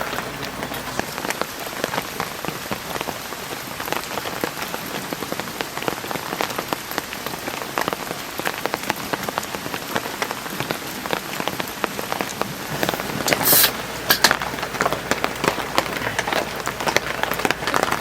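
Heavy rain falling steadily, with many close drops ticking on a surface. About two-thirds of the way through there is a short, louder burst of hissing noise.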